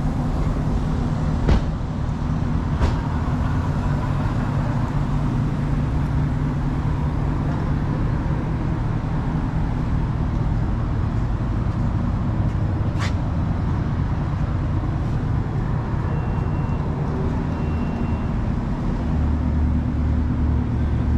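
Car engines idling steadily with a deep, continuous low note. A few short clicks come in the first three seconds and a single sharp tick about 13 seconds in, and the low end grows stronger near the end.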